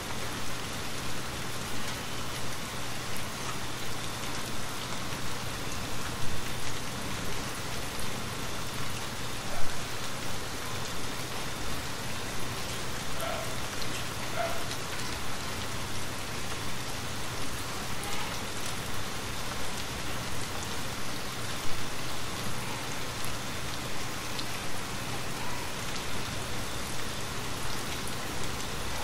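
Steady heavy rain falling, an even hiss of drops, with a few sharp clicks standing out about six, ten and twenty-two seconds in.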